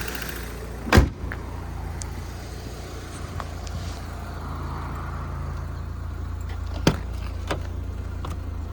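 Handling of a 1992 Vauxhall Cavalier's bodywork: one loud thump about a second in, a sharper knock near the seventh second and a few light clicks, over a steady low rumble.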